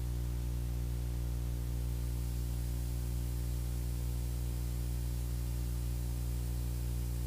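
Steady drone of the Beechcraft Bonanza's piston engine and propeller heard through the cockpit intercom, an unchanging hum with a faint hiss over it.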